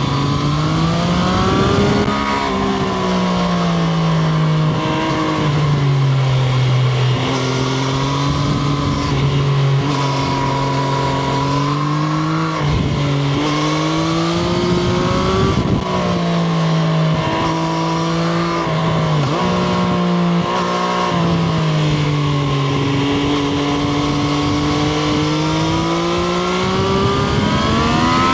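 Triumph Street Triple RS's 765 cc inline-three engine on the move, its pitch climbing under throttle and dropping sharply several times at gear changes and roll-offs.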